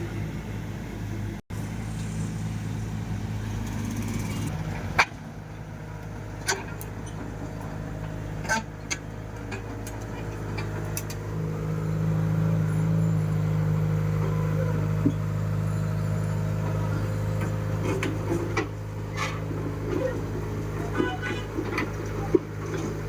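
Heavy diesel engine running steadily, somewhat louder from about halfway, with scattered sharp clicks and knocks.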